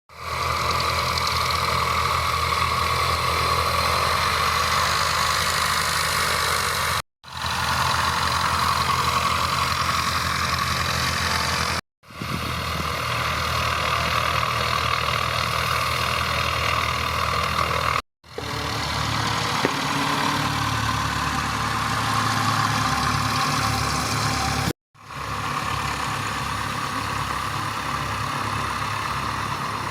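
Light aircraft's piston engine running steadily, with four abrupt brief gaps.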